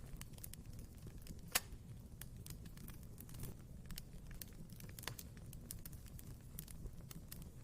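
Wood fire burning in a fireplace: scattered small crackles over a low steady rumble, with a louder pop about a second and a half in and another about five seconds in.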